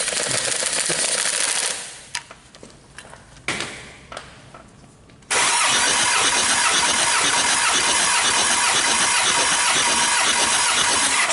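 Starter cranking a Kia D4CB 2.5-litre four-cylinder common-rail diesel over for a compression test: a crank of about two seconds, a short burst about three and a half seconds in, then a steady crank of about six seconds that cuts off near the end.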